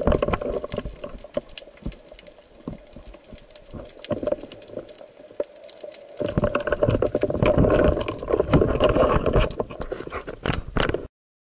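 Water sloshing and gurgling against a spearfisher's camera, with many small crackling clicks; it grows louder about halfway through and cuts off suddenly near the end.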